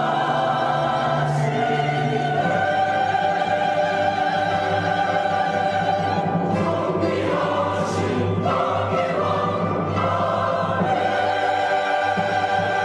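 Church choir singing, holding long sustained chords that change about two and a half seconds in and again a little past the middle.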